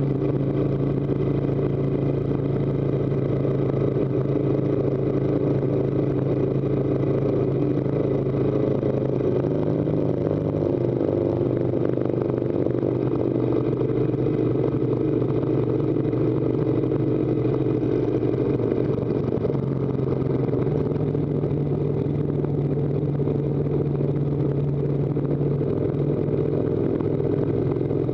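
Harley-Davidson touring motorcycle's V-twin engine running under steady load while climbing a steep mountain road. The engine note drops about ten seconds in and rises again about twenty seconds in.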